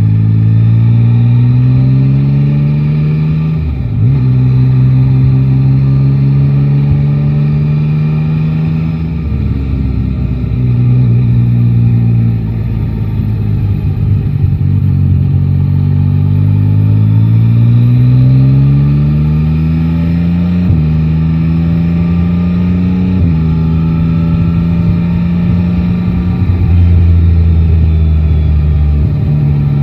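Yamaha Tracer 9 GT's three-cylinder engine pulling through the gears in city riding: the pitch rises under throttle and drops at each upshift, about four and twenty-one seconds in, with a steady cruise between, and falls back near the end as the bike slows.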